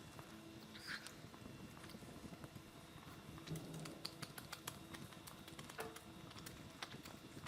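Close-miked mukbang eating sounds: a rapid, irregular run of small wet clicks and smacks from chewing and lip-smacking.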